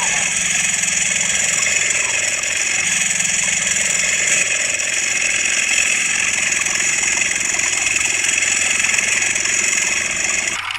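Small model engine running steadily at a constant speed, with a high, buzzing sound.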